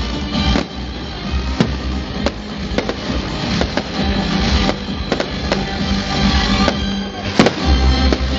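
Fireworks going off in sharp bangs, irregularly about once a second with the loudest near the end, over music playing throughout.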